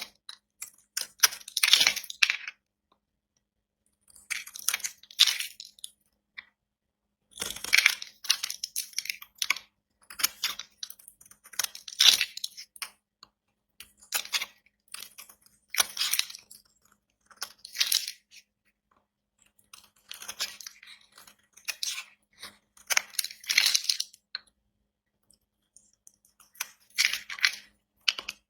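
A knife cutting into dry bar soap: a string of crisp, crackly cuts, one about every two seconds, with short silences between.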